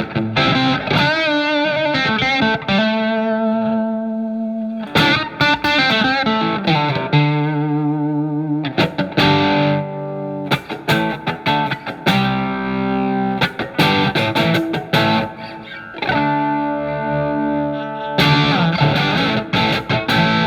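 Telecaster electric guitar played through a Marshall MG15FX amplifier: picked single-note lines, some notes shaken with vibrato, alternating with held chords that ring out.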